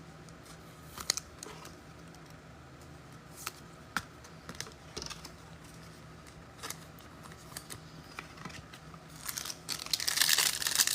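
Trading cards being handled, with scattered light clicks and taps, then about nine seconds in the crinkling of a foil card pack wrapper being torn open.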